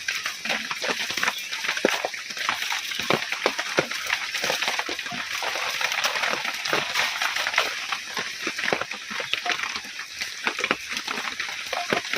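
Heavy rain falling steadily: a dense patter of drops splashing on water and wet ground.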